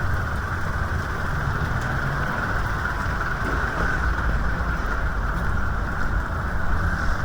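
Rainy street ambience: a steady hiss of rain over the low, steady rumble of a motor vehicle's engine running close by.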